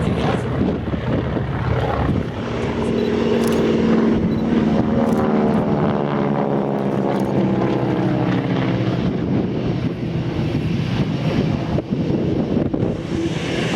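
Airplane flying past at an airshow. Its engine tone slides down in pitch through the middle of the pass.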